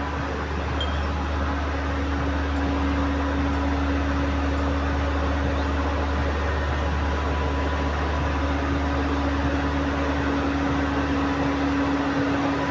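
Komatsu PC130 excavator's diesel engine running steadily, with a constant hum.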